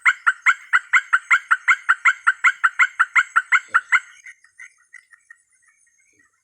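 An animal's call: a fast, even series of sharp repeated notes, about four or five a second, that stops about four seconds in, followed by scattered fainter notes. A faint high steady whine runs behind it.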